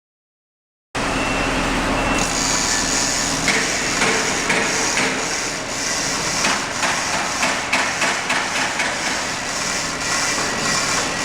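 Hammering: repeated short knocks and clanks over a steady hiss, starting about a second in.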